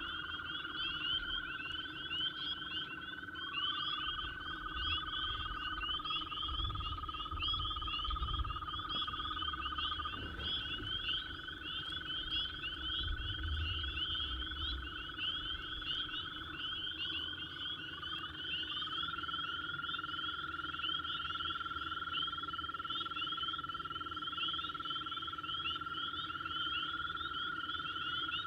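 Chorus of frogs calling: a dense, continuous chatter of high calls, with several long, steady lower trills that start and stop and overlap one another.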